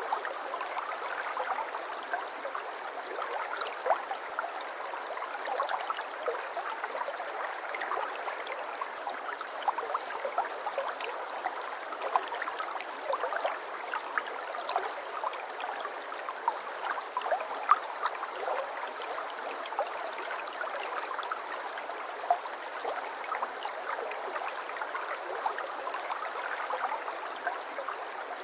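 Shallow brook babbling steadily over stones, a continuous water rush full of small gurgles and splashes.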